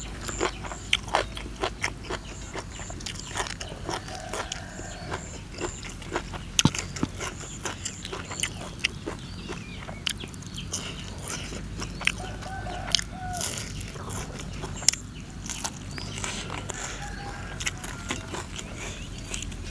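Chewing and crunching a grilled catfish by mouth, close up: irregular sharp crackles and wet smacks.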